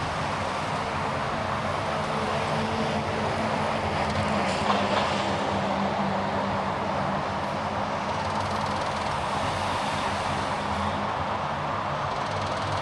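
Steady driving noise of a car on the road: a low engine hum under tyre and road rumble. There is a brief faint click about five seconds in.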